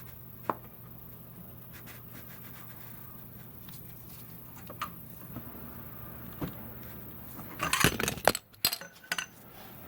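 Scattered metallic clicks and clinks of hand tools and fasteners being handled under a car, with a louder run of clattering about eight seconds in.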